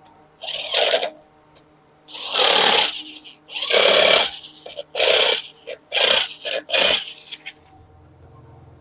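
Hand tools at work on motorcycle engine parts during reassembly: about six short, noisy bursts, each under a second, with brief pauses between them.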